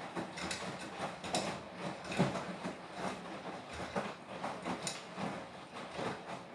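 Beko WTK104121W washing machine running a Quick 40 cycle, its drum turning and tumbling the laundry with irregular knocks and clatter several times a second.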